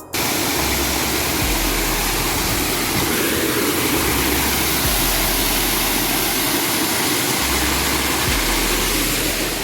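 Waterfall close by: a loud, steady rush of falling water, with a low rumble coming and going underneath.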